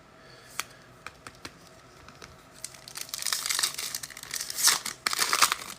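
Foil trading-card pack wrapper crinkling as it is torn open, starting about halfway in, after a few light clicks.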